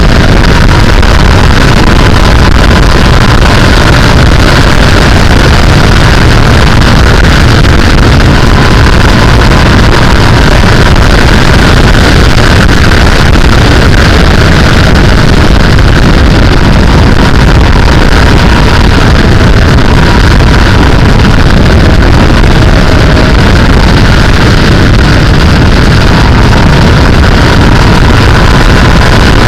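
Wind rushing over the microphone on a moving sportbike, loud and steady, with the bike's engine running at a steady pitch beneath it.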